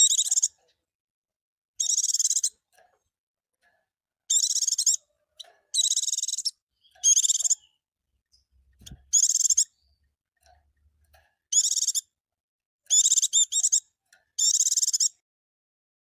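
Pleci (white-eye) song: about nine short bursts of rapid, high-pitched twittering, each about half a second long, with silent gaps of a second or so between them.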